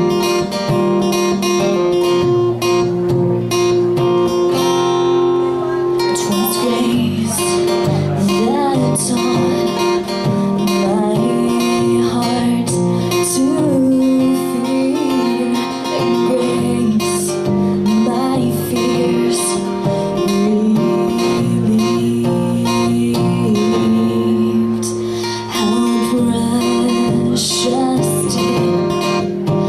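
Acoustic guitar strummed in a steady song accompaniment, with a voice singing the melody from about six seconds in.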